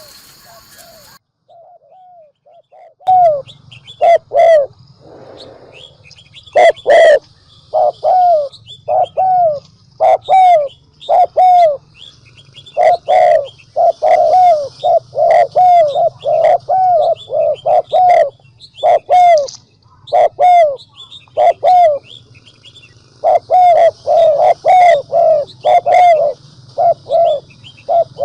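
Spotted dove calling in fast bursts of short, downward-dropping coo notes after a quiet first few seconds: the excited lure call used to provoke wild males. A low steady hum runs under the calls.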